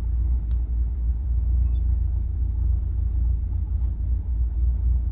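Steady low rumble of the Chevrolet Impala's 327 V8 running at low speed, heard from inside the car.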